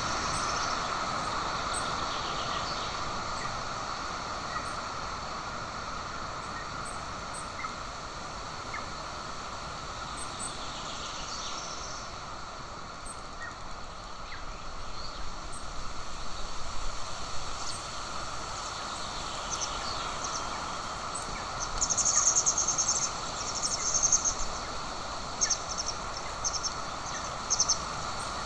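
Steady outdoor hiss, like wind on a nest-camera microphone, with short, thin, high-pitched chirps that come in quick runs in the last third.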